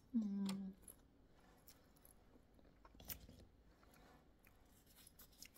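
A short hummed "mmm" right at the start, then soft chewing of sweet tamarind pulp with a few faint mouth clicks.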